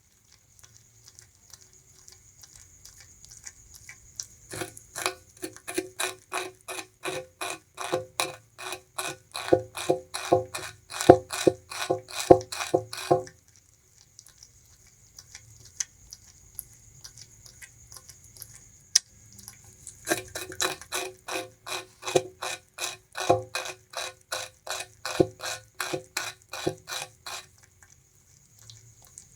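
Bamboo rat gnawing and chewing sugarcane in two long bouts of rapid crunching, about three to four bites a second, with a pause of several seconds between them.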